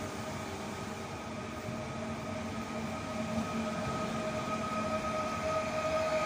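Regional electric multiple unit moving slowly past along a station platform: a steady whine from its drive over a rumble of wheels, getting louder as the end of the train comes by.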